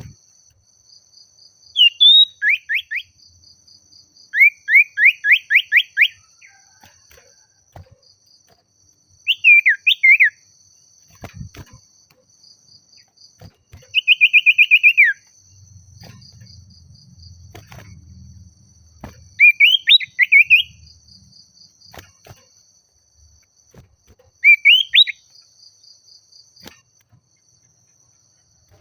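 Common iora (sirtu/cipoh) singing: bursts of quick, downslurred whistled notes every few seconds, with a faster trill about halfway through. Insects keep up a faint steady high buzz underneath.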